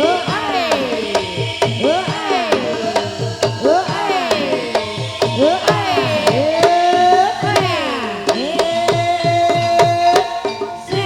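Ebeg dance accompaniment music: hand-drum strokes that bend down in pitch after each hit, over a steady beat of sharp clicks. In the second half long held melodic notes come in.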